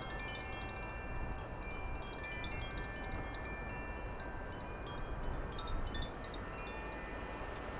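Wind chimes ringing irregularly in the breeze, several overlapping notes at different pitches, over a steady low wind rumble on the microphone.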